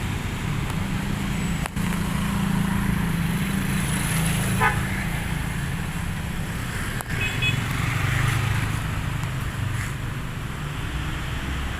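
Jammed road traffic: vehicle engines running steadily in slow, congested flow, with short horn toots about four and a half seconds in and again around seven seconds.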